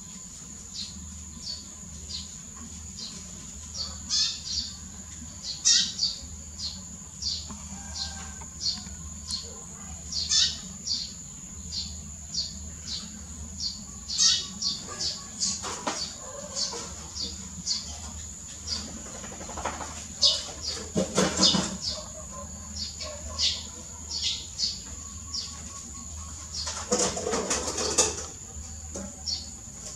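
Outdoor ambience: a small bird chirps over and over, about twice a second, over a steady high insect drone. A few louder rustling noises come in around the middle and near the end.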